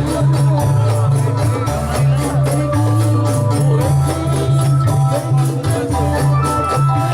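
Dolalak dance accompaniment: hand percussion keeping a fast, steady beat under an electronic keyboard melody and a pulsing bass line.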